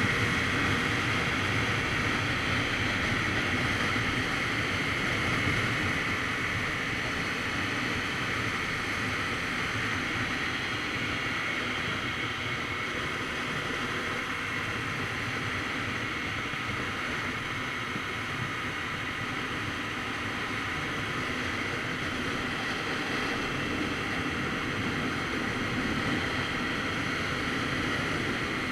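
Steady wind rush over the microphone of a Kawasaki Z900RS Cafe motorcycle riding at speed, with the bike running underneath it. The rush eases slightly over the first several seconds.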